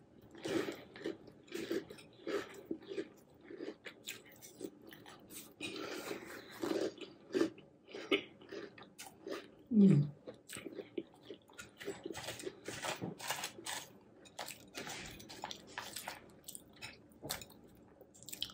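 Close-up chewing of a mouthful of crunchy hot cocoa cereal with marshmallows in milk: crisp crunching and mouth sounds that go on bite after bite. About halfway through comes a short closed-mouth 'mmm' that falls in pitch.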